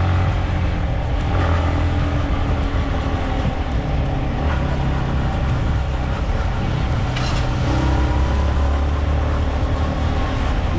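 Motorcycle engine running under way, its pitch shifting a little with the throttle, over steady wind and road noise.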